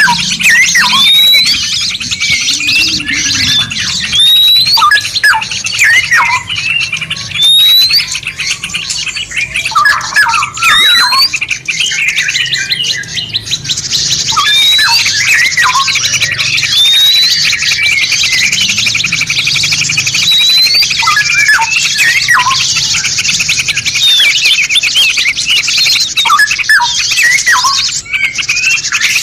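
Several songbirds singing at once: dense, high twittering chatter with a clear rising whistle repeated every second or two. About halfway through, a continuous fast trill joins in.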